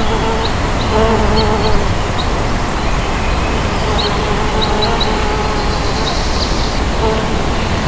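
Mason bees buzzing in flight, the buzz wavering in pitch and coming and going as they pass, over a steady background hiss with scattered brief high chirps.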